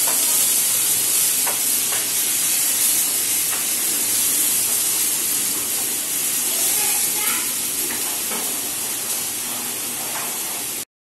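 Ginger-garlic paste frying in ghee in a small pan: a steady loud sizzle that slowly fades, with a few light scrapes and taps of the spatula stirring it, frying until the raw smell goes. It cuts off abruptly near the end.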